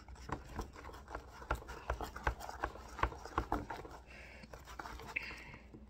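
Spoon stirring freshly activated glue slime in a bowl: irregular clicks and sticky squelches, about three a second, easing off after about four seconds as the slime sets.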